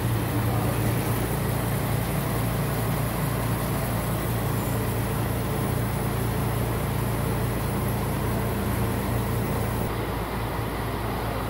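Nissan Fuga 350GT's 3.5-litre V6 idling steadily, heard close to its exhaust.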